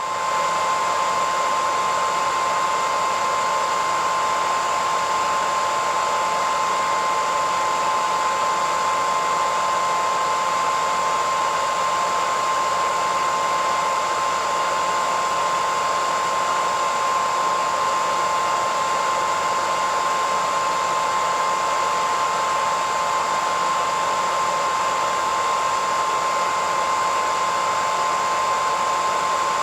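Hair dryer running steadily: a constant rush of blown air with a steady high whine from its motor.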